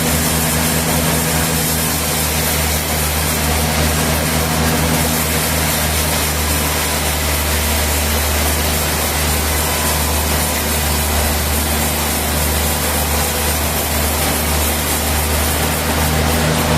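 Sawmill machinery running steadily: a continuous low hum under a dense, even hiss.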